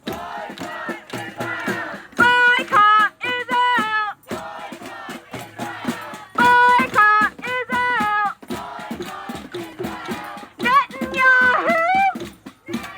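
Protest chanting: a loud lead voice calls short sing-song phrases in bursts, and a crowd chants back in between.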